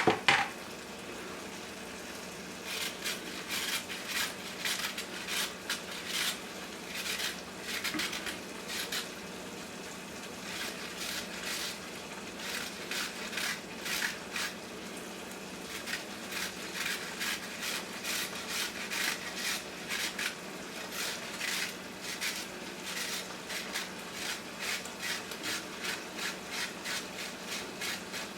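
A carrot being shredded by hand on a grater: runs of quick rasping strokes, several a second, broken by short pauses, over a steady background.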